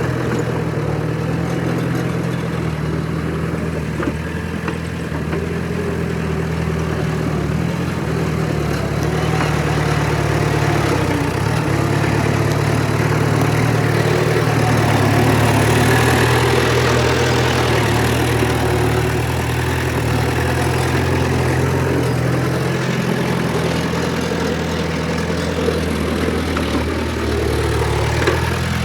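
Heavy earthmoving machinery's diesel engine running steadily, getting a little louder around the middle.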